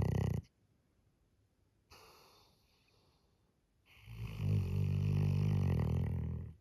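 Black Labrador retriever snoring loudly in its sleep: one low snore cuts off just after the start, a faint breath follows about two seconds in, then another long low snore runs from about four seconds in until near the end.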